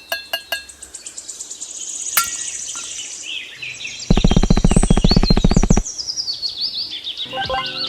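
Birds chirping with quick falling calls. Partway through, a loud, rapidly pulsing buzz lasts under two seconds. A few sharp clicks come at the start.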